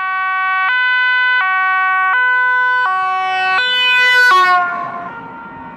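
Two-tone emergency vehicle siren alternating between a high and a low note roughly every 0.7 seconds, cutting off abruptly about four and a half seconds in and dying away with an echo.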